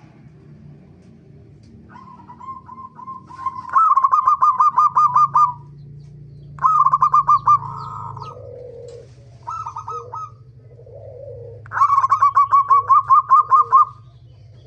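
Zebra dove (perkutut) cooing in four runs of quick, rapidly repeated notes, the first and last runs the longest, with softer lower coos between them.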